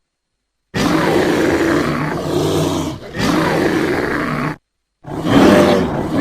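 Bear roaring: a long, rough roar that breaks off briefly partway through, then after a short silence a second roar begins about five seconds in.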